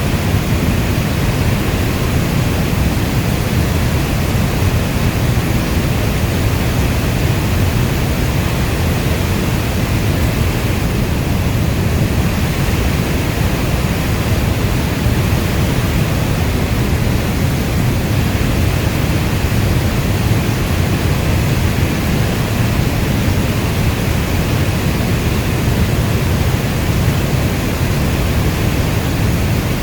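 Steady heavy rainfall: a dense, even hiss with no separate drops standing out, heaviest in its deep low rumble.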